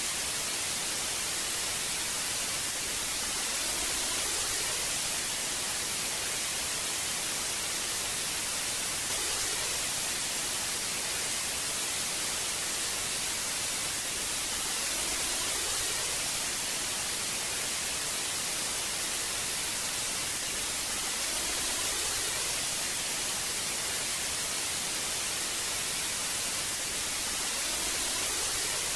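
Old analog television static: a steady hiss, brightest in the high frequencies, swelling slightly about every six seconds.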